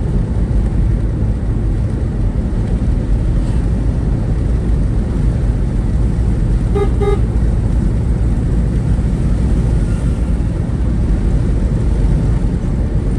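Steady low rumble of a moving road vehicle, with a vehicle horn giving two quick beeps about seven seconds in.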